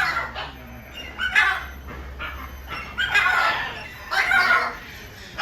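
An animal giving short, loud calls, four in a row with pauses between them.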